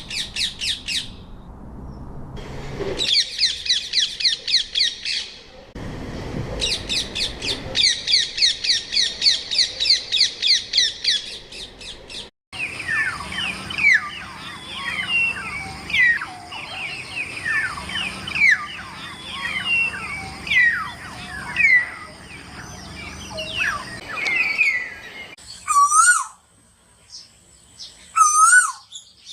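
Birds calling, in several spliced recordings. First come bursts of fast, evenly repeated high chirps. After an abrupt cut about twelve seconds in, many birds give overlapping downslurred whistles, and near the end there are two separate wavering calls.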